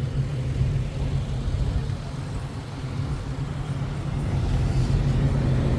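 A motor vehicle's engine idling with a steady low hum. A slightly higher steady tone joins near the end.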